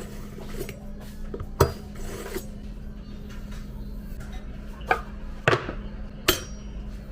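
Kitchen cooking prep: a few sharp knocks and clatters of utensils and cookware, with some rubbing and scraping, over a steady low hum.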